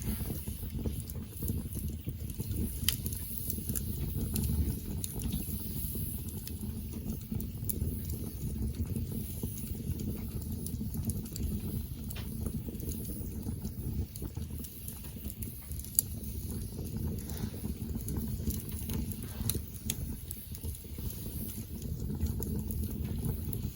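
Wood campfire burning: a steady low rumble with scattered sharp crackles and pops, the loudest about two-thirds of the way through.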